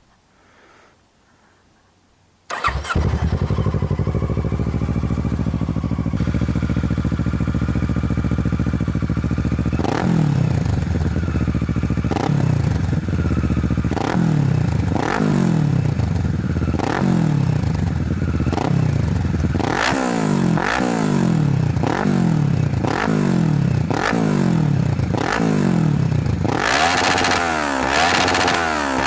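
Kawasaki ER6n's 649 cc parallel-twin engine through a Tiger aftermarket exhaust, starting about two and a half seconds in and idling steadily, then blipped on the throttle about once a second, each rev rising and falling back, with harder revs near the end.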